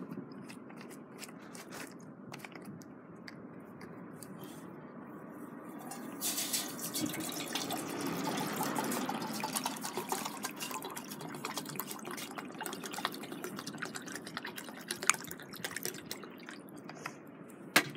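Water poured into a small metal canteen cup, a steady splashing hiss that swells about six seconds in and tapers off over the following several seconds, with scattered sharp clicks and knocks.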